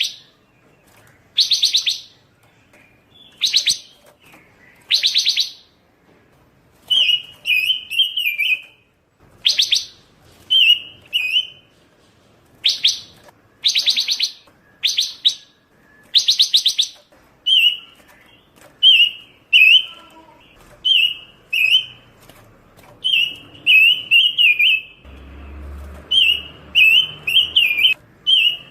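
Pancawarna songbird singing nonstop and loudly: short fast buzzy trills repeated every second or two, then quick warbling phrases of several notes in rapid succession.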